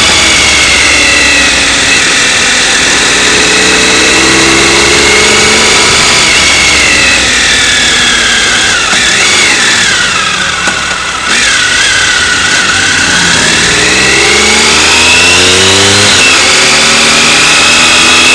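Motorcycle engine running while riding: its pitch falls as the bike slows, dips briefly about eleven seconds in, then climbs again as it accelerates.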